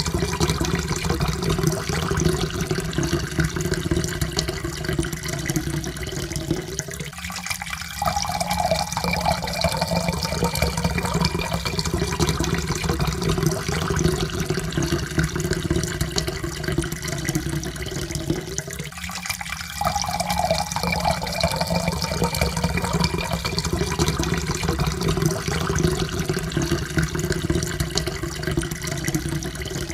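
Water pouring steadily into a cup, with a faint tone that rises slowly as the cup fills. The pour breaks off briefly and starts again twice, about twelve seconds apart.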